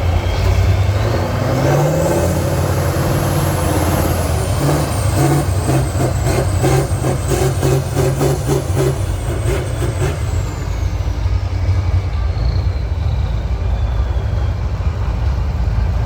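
Turbo-diesel trial truck engine working hard. A high turbo whine rises over the first few seconds, holds, then falls away. In the middle there is a fast, regular clatter of about three knocks a second.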